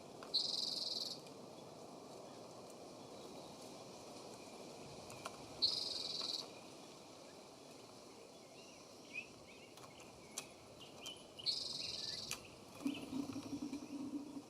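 Wild birds at a feeder: three loud, buzzy, high calls of under a second each, about five to six seconds apart, with soft chirps between them. A low pulsed hum comes near the end.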